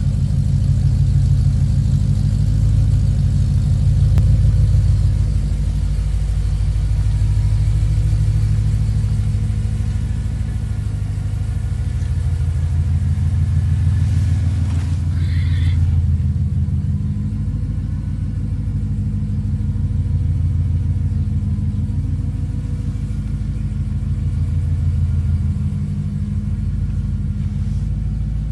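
BMW E92 M3's 4.0-litre V8 idling steadily just after a cold start, a deep rumble that swells and eases slightly every few seconds.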